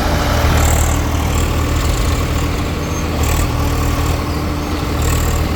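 Tractor diesel engine running steadily under load with a deep, even hum.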